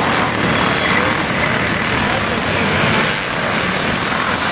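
Several motocross motorcycles racing on the track, their engines blending into one steady, loud engine noise.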